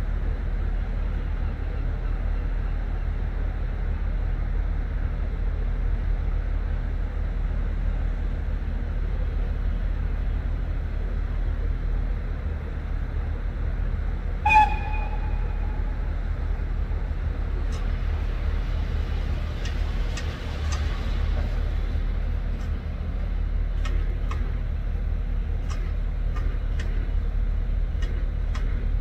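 A steady low rumble of a train standing at a station. About halfway there is one short train toot that fades within a second. Scattered light clicks and knocks follow.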